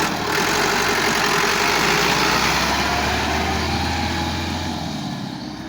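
Massey Ferguson 375 tractor's diesel engine running steadily at idle; its low drone drops out and the sound eases off near the end.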